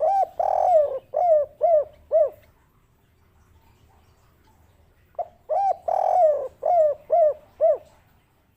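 Spotted dove (derkuku) cooing its 'kuk 3' song: two phrases about five seconds apart, each an opening coo and a longer drawn note followed by three short, evenly spaced coos.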